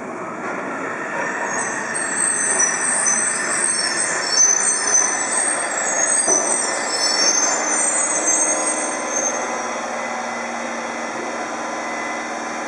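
Yokohama Municipal Subway Blue Line train running through the station, with rumbling rail noise and a wavering, high-pitched metallic squeal from the wheels and brakes. The squeal sets in about two seconds in and fades out after nine seconds, leaving a steady lower hum.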